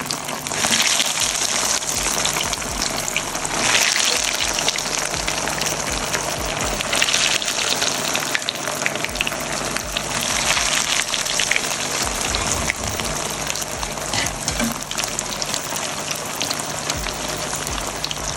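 Breadcrumb-coated chicken cheese balls deep-frying in hot oil: a dense, steady crackling sizzle that swells louder several times.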